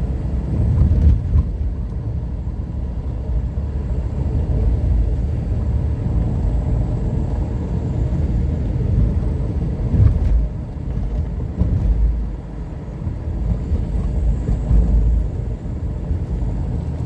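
A car driving over broken, potholed pavement: a steady low rumble of tyres and engine, with a couple of jolts from the rough surface.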